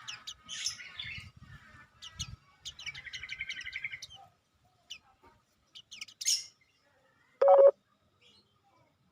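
Small songbirds chirping, with a rapid trill about three seconds in. About seven and a half seconds in comes a short, louder, lower-pitched call.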